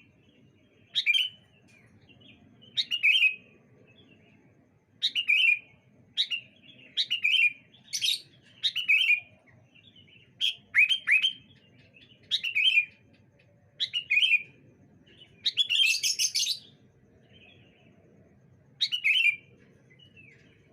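Sooty-headed bulbuls (kutilang) calling back and forth in short chirping phrases, one every second or so. One louder, harsher call comes about sixteen seconds in.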